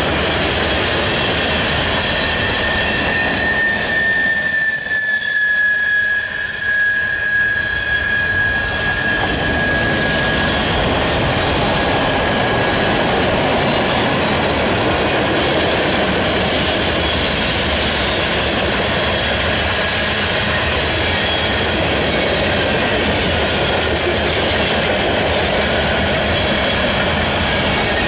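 Freight cars of a manifest train rolling past on the rails, a steady rolling noise of steel wheels on track. For the first ten seconds or so a thin high squeal from the wheels rides on top, dipping slightly in pitch and then fading out.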